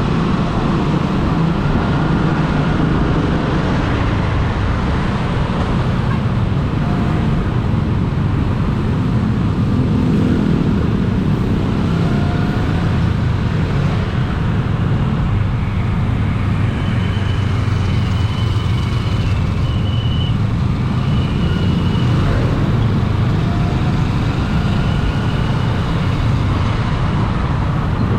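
Steady road traffic noise while travelling along a busy road, a continuous low rumble of vehicles. Faint high-pitched tones come and go in the second half.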